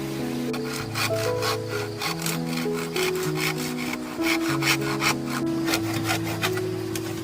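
Hand saw cutting through wood in quick, even strokes, about three a second, over background music.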